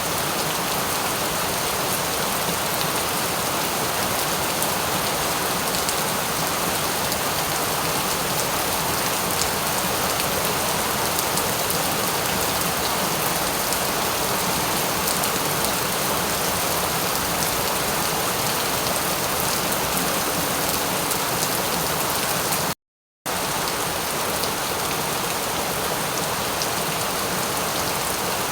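Steady rain falling, an even hiss with fine patter of drops. About three-quarters of the way through it cuts out completely for under half a second, then carries on unchanged.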